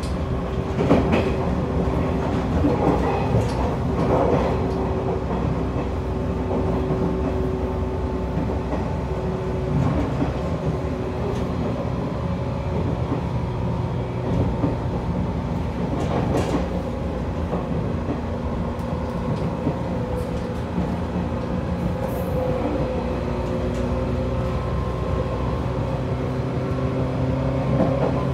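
Running noise inside a JR 185 series electric train at speed: a steady rumble of wheels on rail with a level motor and gear hum, and now and then a knock as the wheels cross rail joints.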